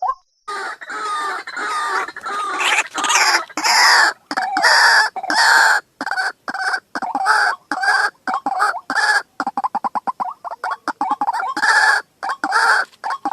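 White-breasted waterhen giving its loud, harsh croaking call: a dense run of raucous notes that breaks into fast, choppy stutters in the second half.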